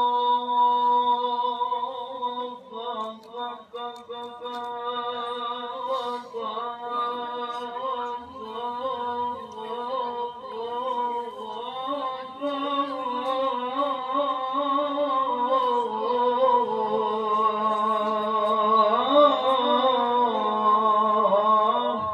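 A male qari reciting the Quran in the melodic tilawah style, drawing out long ornamented phrases whose pitch winds up and down, and breaking off at the end.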